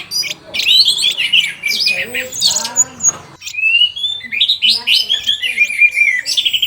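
Orange-headed thrush singing a loud, fast, unbroken song of varied whistled glides and chattering phrases.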